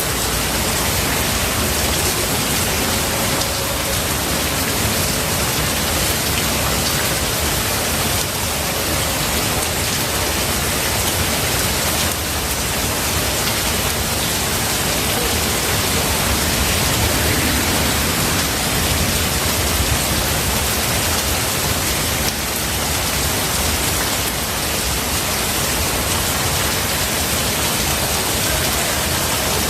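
Steady heavy rain falling in a forest.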